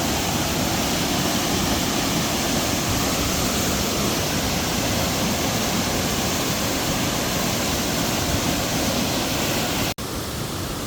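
Waterfall's water falling into its plunge pool with a steady rush. About ten seconds in it cuts out for an instant and resumes a little quieter.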